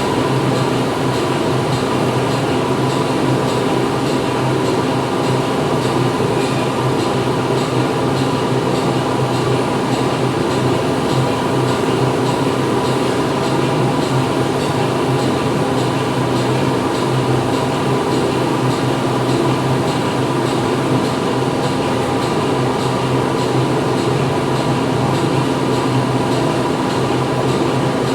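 Factory floor ambience: steady, loud machinery running, a constant hum with several steady tones over a dense noise, with no distinct knocks or changes.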